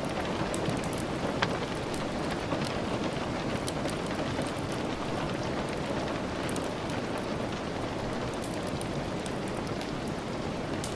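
Steady rain falling, with many small sharp ticks and taps scattered through it.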